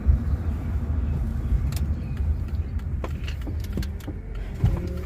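Car being driven, heard from inside the cabin: a steady low engine and road rumble, with a few faint clicks and knocks.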